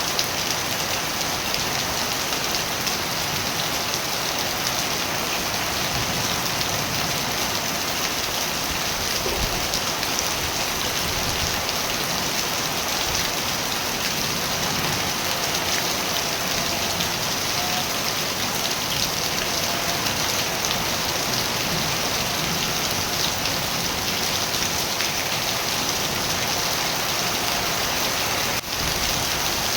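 Steady rain falling, an even hiss of many drops with no break in intensity. It dips briefly about a second before the end.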